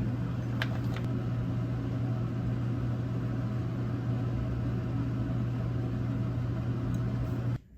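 A kitchen appliance running with a steady low hum, switched off abruptly near the end.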